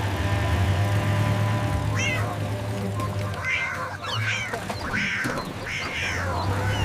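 A cat meowing repeatedly, one meow about two seconds in and then a run of five or six, each rising and falling in pitch, over background music.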